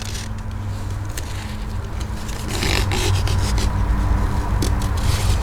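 Blue tape being pulled off its roll and wrapped around a carpeted scratching post: scraping and rubbing, with a louder stretch of tape unrolling about halfway through and a few sharp clicks.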